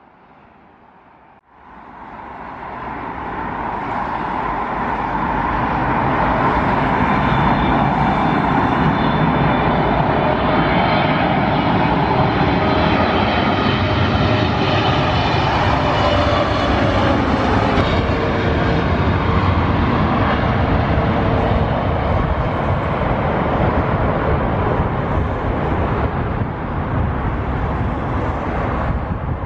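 Jet airliner engines running at high power: a loud roar with a whine that swells over the first few seconds and holds.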